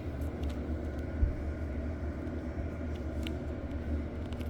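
Old Loren Cook exhaust fan running on its original motor: a steady low hum with a rush of air. There is a brief thump about a second in.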